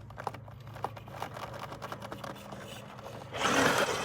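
Radio-controlled scale rock crawler working over an obstacle: light scattered ticks and clicks over a low steady hum, then, about three seconds in, a sudden louder rush as the motor and tires spin up.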